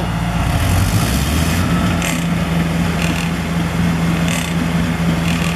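Concrete pump running with a steady low hum, with a short burst of noise about every second or so.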